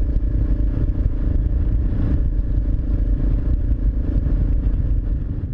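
Suzuki DR650SE single-cylinder engine running steadily through an aftermarket Barrett exhaust while riding, with a deep, even exhaust note.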